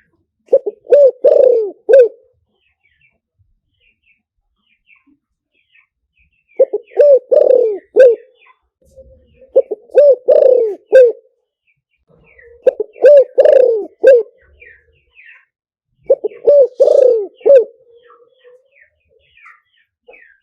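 Spotted dove cooing in five repeated phrases, each a quick run of about four coos, a few seconds apart. This is a decoy call used to lure wild doves. Faint high chirps of small birds come between the phrases.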